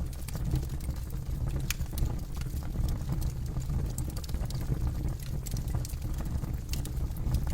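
Campfire burning, with a steady low rumble of flames and frequent irregular sharp crackles and pops from the burning wood.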